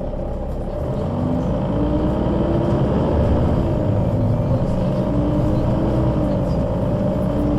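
Solaris Urbino 12 III city bus with a Voith automatic gearbox pulling away: engine and drivetrain grow louder over the first two or three seconds, then run on steadily under load.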